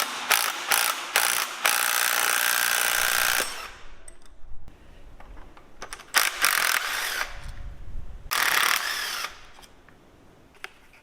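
Ratchet wrench working on a small V-twin engine, a few single clicks followed by three quick bursts of rapid ratcheting, each about a second long.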